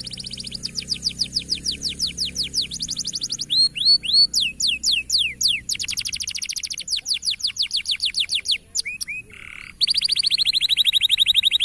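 Domestic canary singing a fast, continuous song of trills: runs of rapidly repeated high notes, some sweeping downward, switching to a new run every second or so.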